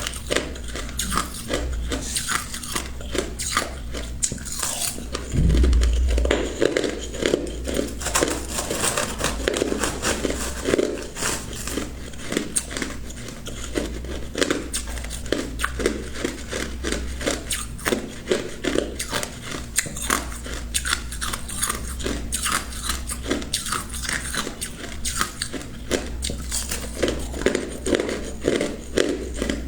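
Ice being bitten and chewed close to the microphone: a fast, continuous run of sharp crunches and cracks. A louder low thump comes about five and a half seconds in.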